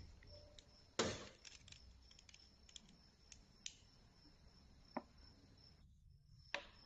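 Faint scattered clicks and knocks of small objects being handled, the loudest about a second in, over a faint steady high whine.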